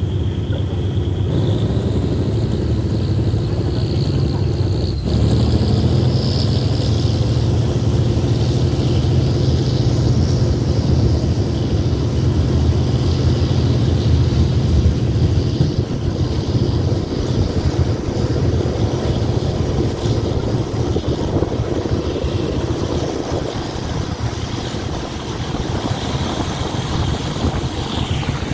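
Diesel passenger train running along the track, heard from an open carriage window: a steady low engine drone mixed with wheel-on-rail noise, growing louder about five seconds in.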